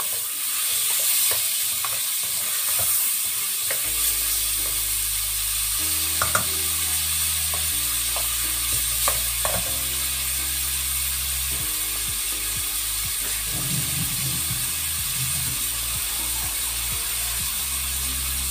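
Pork, onion and tomato sizzling steadily as they sauté in a pot, with a wooden spoon scraping and knocking against the pot now and then during the first ten seconds. A low background music bass line plays underneath.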